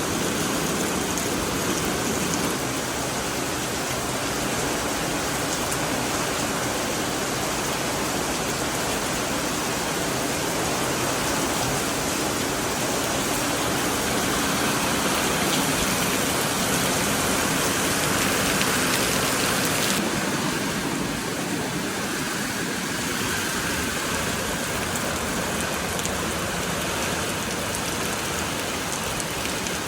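Steady heavy rain falling, a dense even hiss with no let-up; its tone changes slightly about twenty seconds in.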